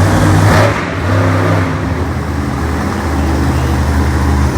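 Monster truck engine running loud and being revved, its pitch stepping up and down, with a brief surge about half a second in.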